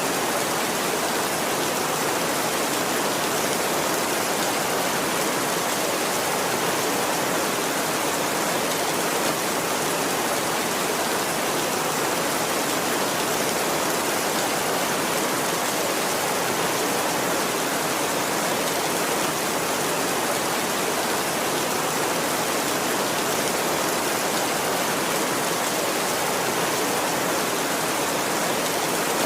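Steady heavy rainfall, an unbroken hiss of many drops with no thunder and no change in intensity.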